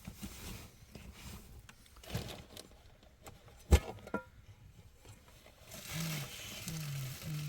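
A sharp knock or click near the middle, with a smaller one just after and faint handling noises around it; near the end a low voice speaks briefly.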